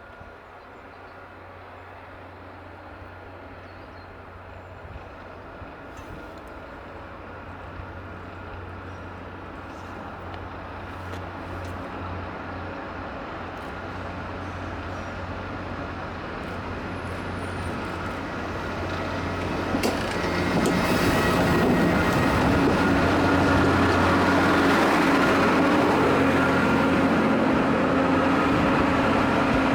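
Speno rail grinding train approaching along the track. A low steady hum grows louder for about twenty seconds, then about twenty seconds in it becomes loud, with a harsh rushing noise over the hum as the train draws close.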